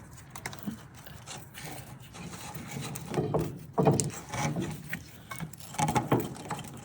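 Hand tools working on the gearbox mount bolts: a ratchet and spanner clicking, scraping and knocking irregularly, with a few louder knocks about midway and near the end.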